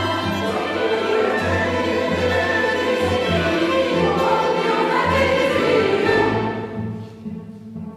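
Mixed choir and chamber orchestra performing a sacred mass setting; the full sound breaks off about six seconds in and dies away, leaving quieter instrumental music.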